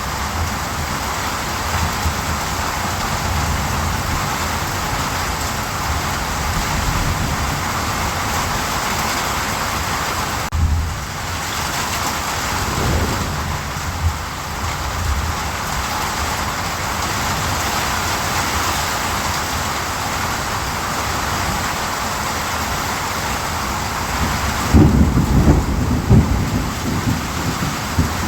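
Steady rain, with low rolls of thunder now and then, the loudest a few seconds before the end.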